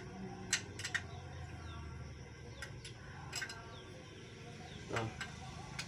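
Hand tools and engine parts clicking and tapping now and then during engine disassembly, a few sharp separate clicks over a low steady hum.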